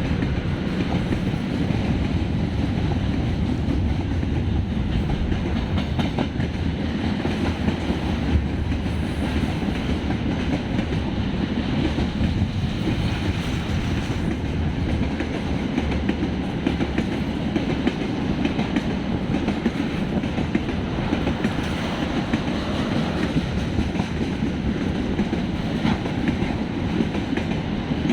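A long train rolling past: a steady rumble of wagons with the clickety-clack of wheels over the rail joints.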